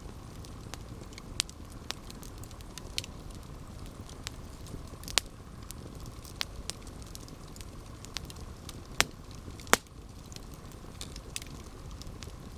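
Campfire burning: a steady low rumble of flames with irregular sharp crackles and pops of burning wood, the loudest pops about five, nine and ten seconds in.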